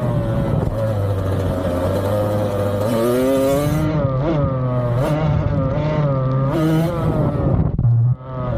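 Yamaha dirt bike engine running hard, its pitch rising and falling as the throttle is worked, with a brief sharp drop in sound near the end.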